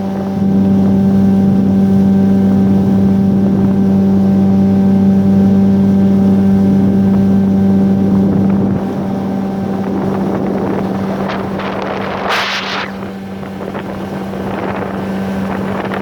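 Tohatsu 9.8 outboard motor running steadily with an even pitch; about nine seconds in it quietens, giving way to a rushing noise with a brief loud burst a few seconds later.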